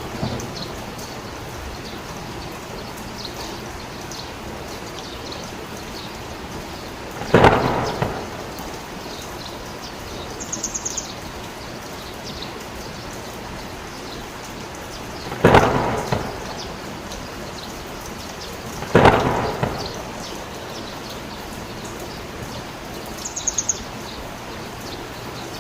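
Heavy rain falling steadily, with three sharp cracks of thunder, each fading away over about a second. Two brief high chirps rise above the rain.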